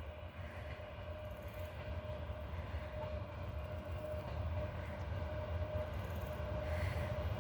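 A 3ES5K electric locomotive with a freight train approaching. It makes a low rumble with a steady humming tone, growing gradually louder.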